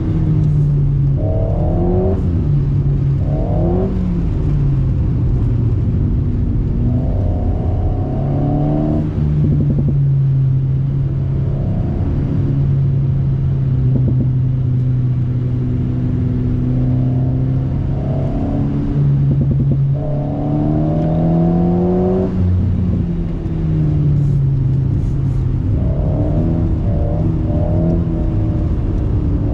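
Alpine A110's turbocharged four-cylinder engine through a BDA Racing Track Evo stainless exhaust, heard from inside the cabin during track driving. It revs up and drops back again and again, holding a steady pitch for several seconds in the middle.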